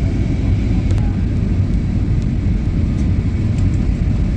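Airplane's steady low rumble, holding an even level with no rise or fall.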